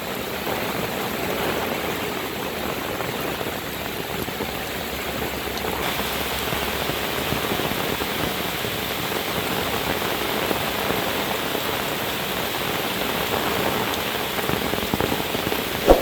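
Heavy rain falling steadily, a dense even hiss; about six seconds in the higher part of the hiss grows stronger as the downpour picks up.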